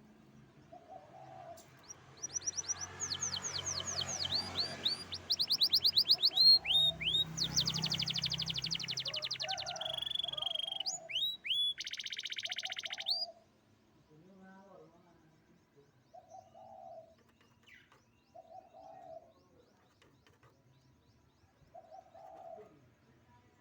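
Domestic canary singing a loud, fast song of rapidly repeated down-sweeping whistled notes in rolls, which stops abruptly about halfway through. Soft low coos repeat every couple of seconds, like a dove cooing in the background.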